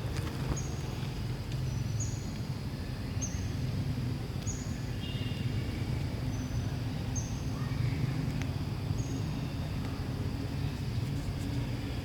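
A small bird chirping, short high notes repeated every second or so, over a steady low rumble of background noise.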